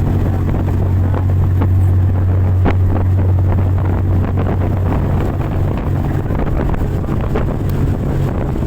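Fast boat's engine running at speed with a steady low drone, wind buffeting the microphone, and occasional short knocks.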